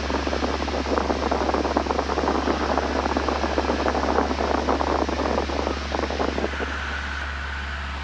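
Cessna 172N cabin noise heard through the headset intercom: a steady low engine drone under a crackly rushing hiss, which thins out near the end.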